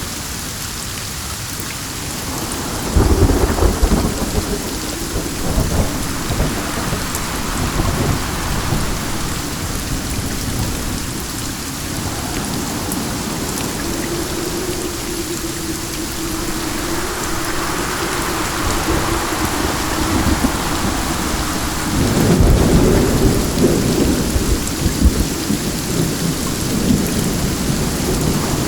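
Steady rain falling, with low rolls of thunder: one starting about three seconds in and another about twenty-two seconds in, the second lasting several seconds.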